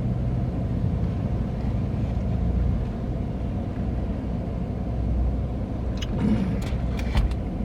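Steady low rumble of an idling vehicle engine, with a few light clicks about six to seven seconds in.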